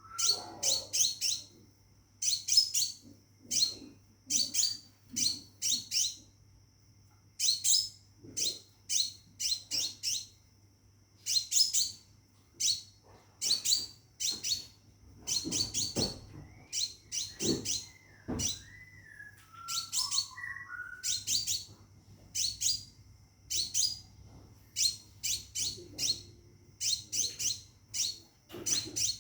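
Caged scarlet minivet (sepah raja) calling steadily: short, high chirps in quick groups of two to four, repeated over and over, the calls a male uses to summon a female. A fainter, lower whistled glide comes in briefly past the middle.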